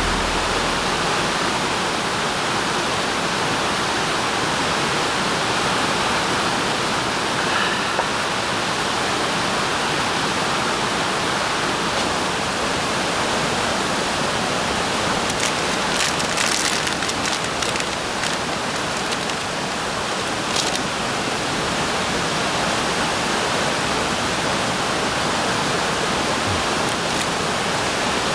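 Steady rushing noise, water-like, such as rain or running water, with a few short clicks near the middle.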